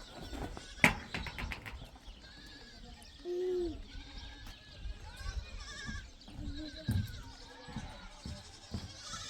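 Flock animals bleating, with one loud bleat a little past the middle and fainter bleats around it. A sharp click about a second in.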